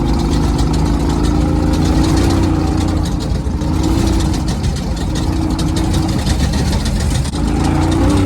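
Race truck engine running steadily, its pitch wavering with the throttle, easing off briefly about three seconds in and again near seven seconds.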